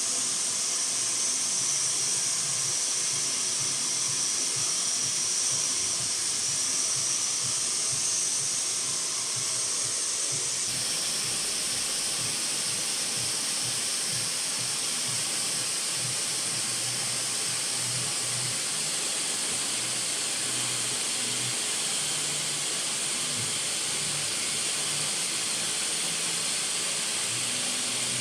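Handheld hair dryer blowing a steady hiss of air, its tone shifting slightly about eleven seconds in.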